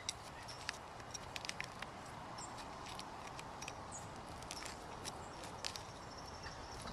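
Steady rain falling, with irregular sharp ticks of raindrops striking close by.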